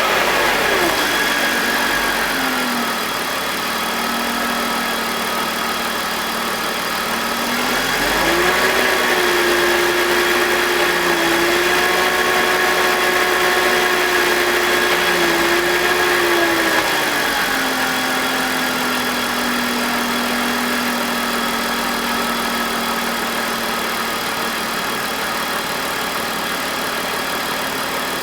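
BMW M52TU 2.5-litre straight-six idling with its VANOS connected. The idle speed sags in the first couple of seconds, climbs about eight seconds in, then drops again around seventeen seconds. The owner takes these RPM drops, with a faint grinding, as a sign of a faulty VANOS unit.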